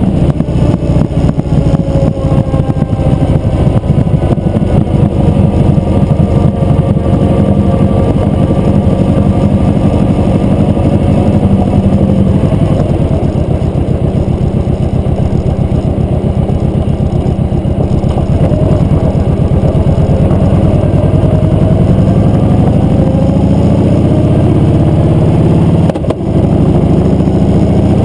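Motorcycle engine running while riding, its note rising and falling with the throttle, with a brief drop in level near the end.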